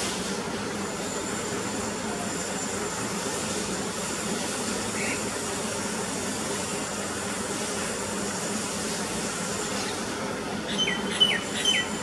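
Steady background hiss and hum with a faint high whine. About a second before the end, a bird gives three short, quick falling chirps.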